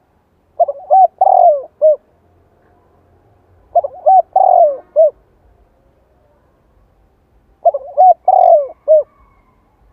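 Spotted dove cooing: three phrases of several short, falling notes, about three seconds apart. It is a decoy bird's vigorous call, the kind used to set wild doves cooing back.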